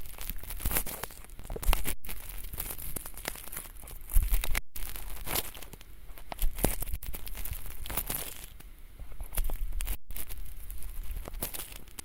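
Ear-cleaning tool scraping and crackling inside an ear right at the microphone, a run of crisp scratchy strokes with a few brief silent breaks.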